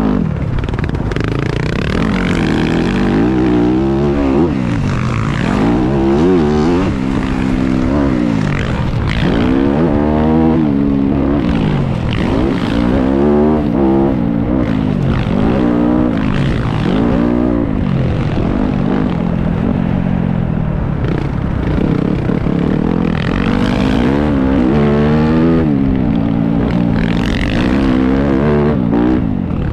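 Motocross bike engine revving up and falling back over and over as it is ridden, its pitch climbing and dropping every second or two.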